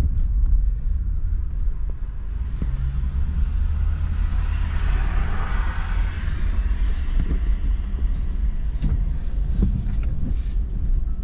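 Truck engine running with a steady low rumble as it drives in wet snow. A hiss swells and fades around the middle, with a few knocks near the end.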